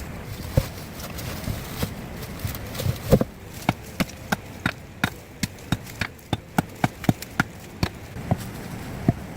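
A tool striking wood in a quick run of sharp knocks, about three a second, after two heavier single hits in the first few seconds, over a steady background hiss.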